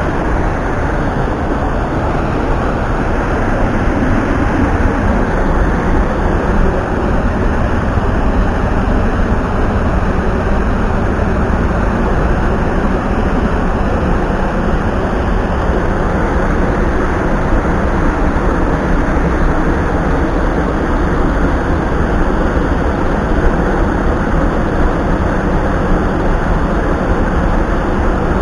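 Mountain stream rushing over rocks: a loud, steady wash of water that stays the same throughout.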